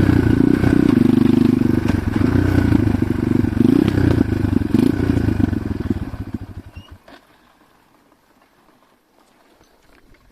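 Enduro motorcycle engine running with a rough, pulsing beat, then shut off about six seconds in, its firing slowing and dying away. After that only a few small clicks are heard.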